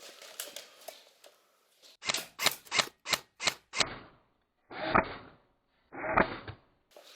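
Airsoft gun firing: a quick run of about seven sharp shots, then two short bursts about a second apart.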